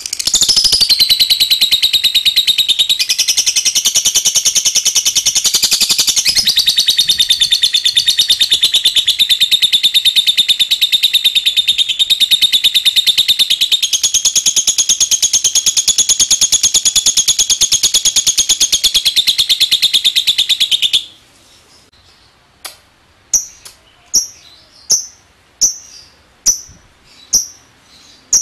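Lovebird giving its long chattering song (ngekek): a loud, very rapid, high-pitched trill held without a break for about twenty seconds. The trill then stops and the bird gives a string of separate short, sharp chirps, a little under a second apart.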